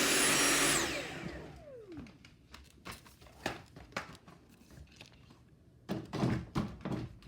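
Dyson V7 Motorhead cordless stick vacuum running with a high whine and a rush of air, then switched off about a second in, its motor spinning down in a falling whine. Scattered light knocks and clicks follow.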